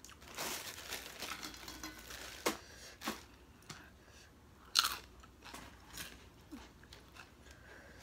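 Person chewing crunchy food close to the microphone: a dense run of crunching in the first two seconds, then separate sharp crunches, the loudest just before halfway through.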